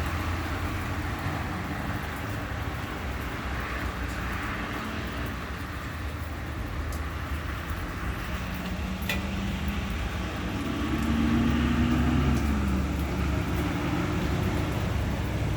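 Road traffic and vehicle engines running, with one engine rising and then falling in pitch about ten to thirteen seconds in, and a single sharp click around nine seconds.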